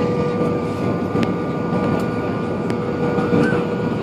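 Steady cabin noise inside an Airbus A320-232 airliner, its IAE V2500 engines and airflow making an even roar with a constant hum, broken by a few faint clicks.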